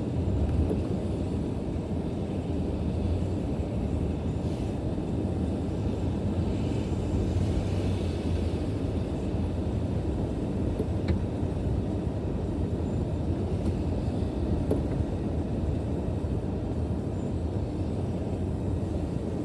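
Steady low rumble of a car on the move, typical of road and engine noise heard from inside the cabin.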